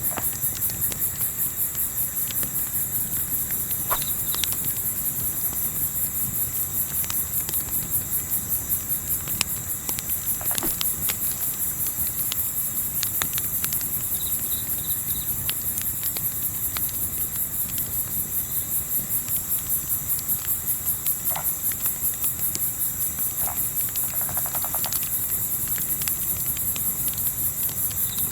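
Crickets chirping steadily in a fast, even, high trill. Scattered crackles and pops from a campfire sound over a low rumble of wind.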